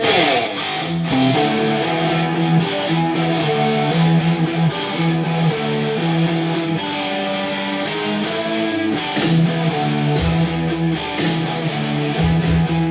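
Heavy metal record playing with a distorted electric mandola riffing along, played through a one-watt Marshall JTM145 valve amp with a JHS Morning Glory overdrive pedal. The music starts abruptly.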